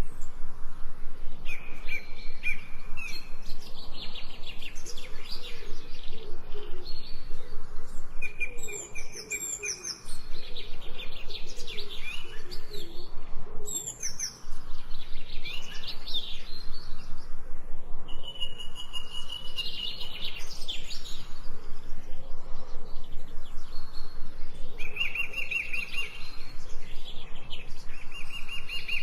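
Birds chirping and singing: rapid, repeated high chirps and short trilled phrases, with two brief drops in level partway through.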